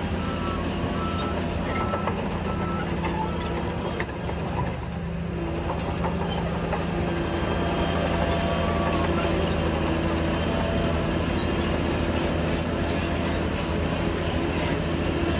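Shantui DH17C3 bulldozer's diesel engine running steadily under load, with metallic clatter from the machinery. It dips briefly about four seconds in, then climbs and holds louder from about eight seconds in.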